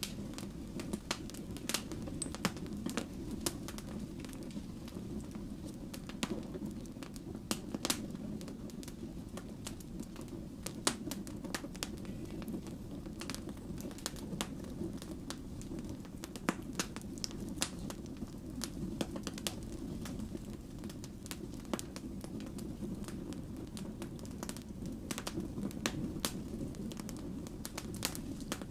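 Burning firewood crackling, with frequent irregular sharp pops and snaps over a steady low rumble of the flames.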